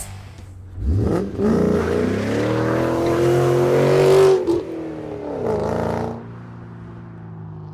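Ford Focus ST's turbocharged 2.0-litre four-cylinder engine being revved. The revs climb about a second in and are held high for about three seconds, then fall back to a lower steady speed before the sound cuts off near the end.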